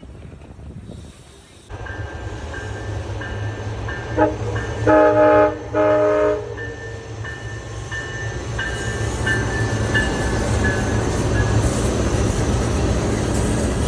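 Train horn sounding two loud blasts, each a chord of several tones, over the low rumble of a train that grows steadily louder as it approaches.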